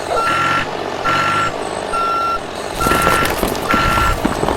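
Vehicle reversing alarm beeping at a steady pitch, five evenly spaced beeps a little under a second apart. From about three seconds in, a louder rumbling noise joins under the beeps.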